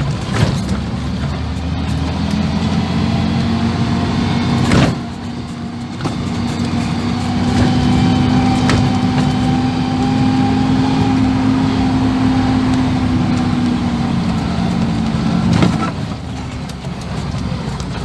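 A 1980 Land Rover Series III engine running steadily as the vehicle drives along a track. There is a sharp knock about five seconds in, after which the sound briefly drops, and another knock near the end.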